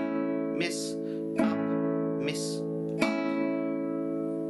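Guitar chord strummed in a miss-up pattern: the downstroke on each beat misses the strings and only the up strum on the offbeat sounds, about every 0.8 s. The chord rings between strums, and after the last strum, about three seconds in, it rings on and begins to fade.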